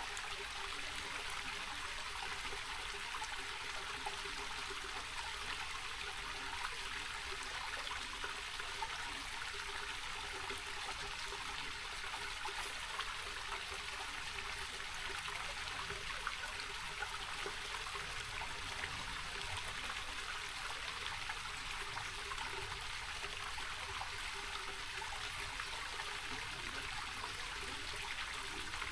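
Small rocky mountain creek trickling and babbling steadily over stones.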